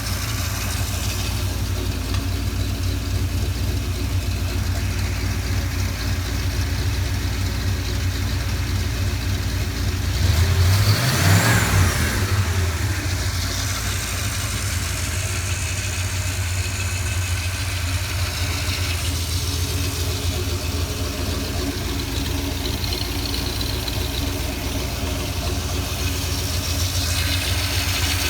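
MerCruiser 5.7 L 350 small-block V8 marine engine idling steadily, with one throttle blip about ten seconds in that rises and falls back to idle.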